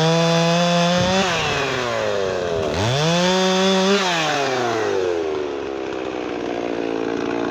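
Gas chainsaw revved up to full throttle and held for about a second, dropping back, then revved and held again for just over a second before falling back to a steady lower run.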